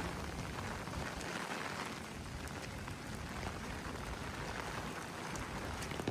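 Heavy typhoon rain falling in a steady hiss, with scattered sharp drop ticks. Under it runs an uneven low rumble of strong wind.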